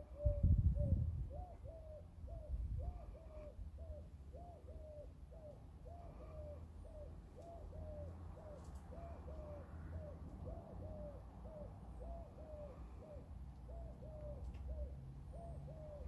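A bird calling over and over with short, clipped notes, evenly about twice a second. A low thump on the microphone comes about half a second in.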